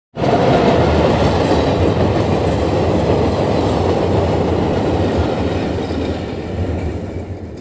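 Passenger train hauled by a WAP-4 electric locomotive running past, a steady loud rumble of wheels on the rails that eases off slightly near the end.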